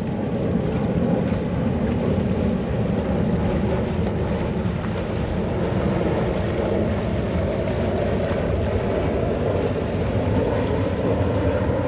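A sailing yacht's engine running steadily as the boat motors in, with wind buffeting the microphone.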